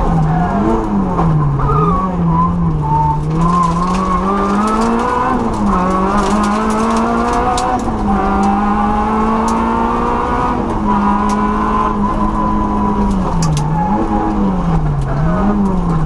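Peugeot 106 N2 rally car's engine heard from inside the cockpit under hard driving. The pitch swings up and down as the throttle is lifted and reapplied, climbs steadily through a long pull in the middle, and drops suddenly about five and eleven seconds in at gear changes, with a few sharp clicks over the top.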